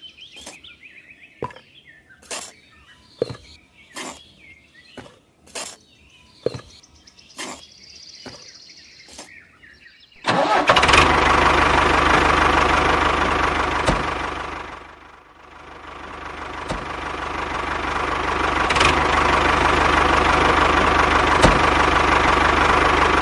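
A series of sharp taps and clicks with birds chirping faintly, then about ten seconds in a small electric motor switches on and runs loudly and steadily. Midway through it slows and fades for a moment, then speeds back up to full running.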